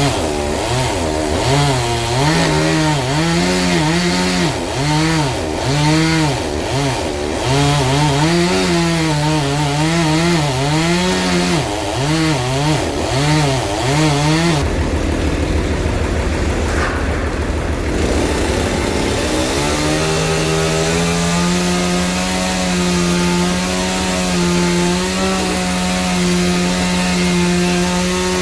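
Engine-driven saw cutting a big log. The engine's pitch swings up and down under the changing load for about the first half. After a few seconds of rough, unpitched noise, the pitch rises and holds steady.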